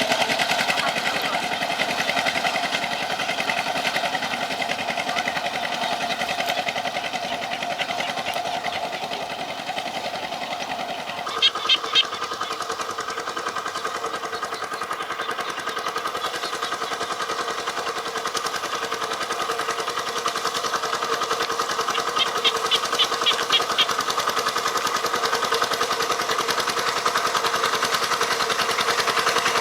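A tractor's motor running steadily with a rapid, pulsing note that steps up in pitch about a third of the way through. Two clusters of sharp knocks cut in: three close together near the middle and about six more later.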